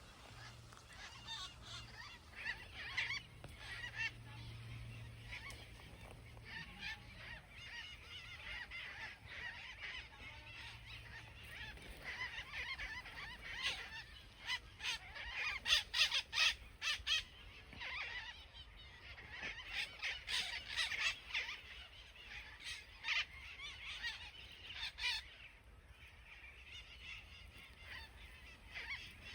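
A flock of parakeets calling in many short, shrill squawks, densest in the middle stretch.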